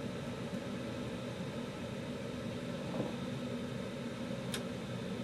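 Draft inducer fan of a 2021 Carrier gas furnace running steadily during the startup sequence, while the igniter warms up before the gas valve opens. A short faint click comes about four and a half seconds in.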